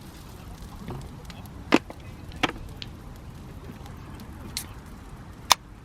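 Three sharp knocks or cracks at uneven intervals, the last the sharpest, with a few fainter ticks between them over a low background hiss.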